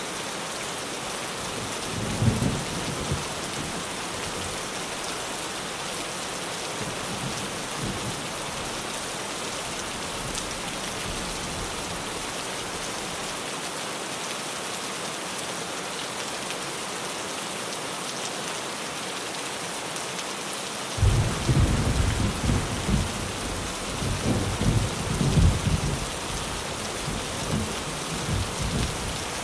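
Rain falling steadily on a tin roof, with a brief rumble of thunder about two seconds in and a longer rolling peal of thunder starting about two-thirds of the way through.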